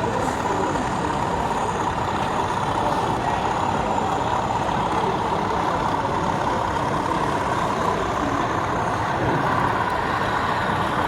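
Steady hubbub of a busy exhibition hall, an even wash of background noise with no distinct events.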